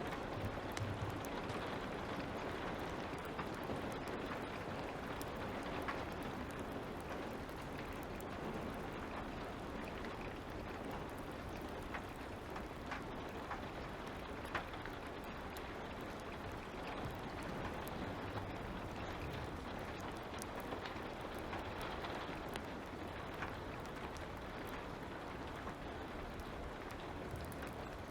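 Steady hiss of light rain with a fire crackling, scattered small pops and one sharper snap about halfway through.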